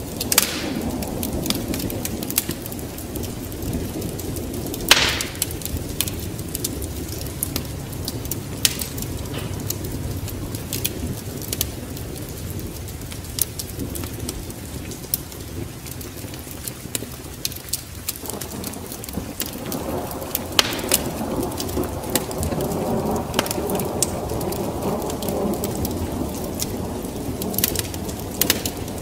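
Steady rain with thunder rumbling low, under the crackle and pops of a wood fire. There are a few louder snaps, one about five seconds in, and the rumble swells in the latter part.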